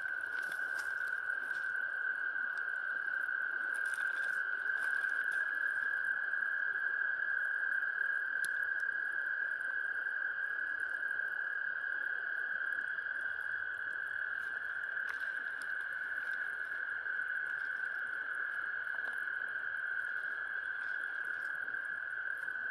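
A dense chorus of frogs calling together, merging into one steady high-pitched trill, with a few faint scattered ticks.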